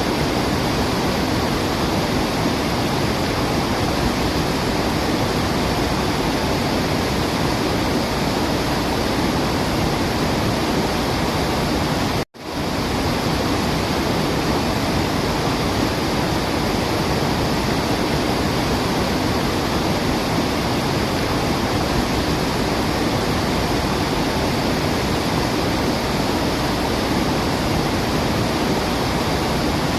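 Waterfall rushing: a steady, dense wash of falling water with no birdsong standing out. It cuts out to silence for an instant about twelve seconds in, then resumes at once.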